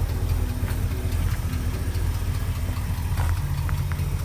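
A 1976 Ford 390 FE V8 engine running at a steady idle, with a tick from a couple of blown-out exhaust gaskets.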